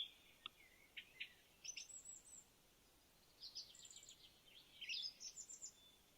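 Faint birdsong: a small bird gives scattered high chirps and several quick trilled phrases, with a faint hiss behind.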